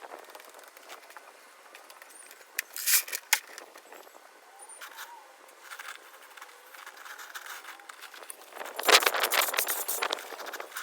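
Shovel digging into stony soil and crushed stone: short scrapes and knocks, a few strikes about three seconds in, then a longer, louder run of scraping and crunching near the end.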